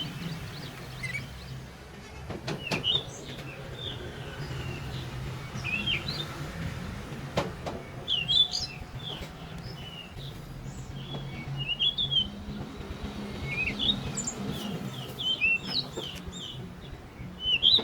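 Small birds chirping in short, repeated calls over a low steady hum, with a few sharp clicks.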